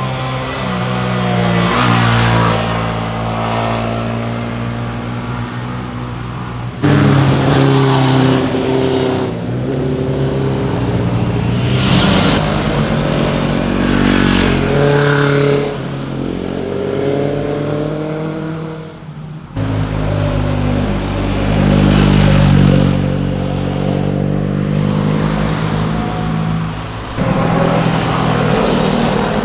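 Sport motorcycles riding past one after another through corners, their engines revving up and falling away as they change gear. The sound breaks off abruptly three times as one bike's pass cuts to the next.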